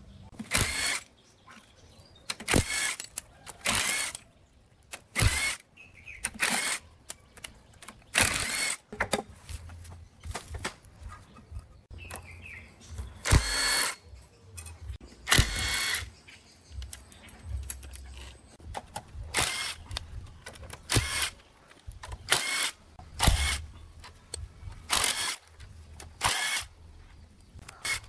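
Handheld electric power tool run in short bursts under a second long, over and over, each burst spinning up and stopping.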